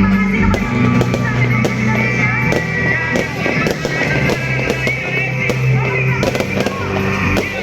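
New Year fireworks going off in many sharp bangs and crackles, layered over music with a steady bass line.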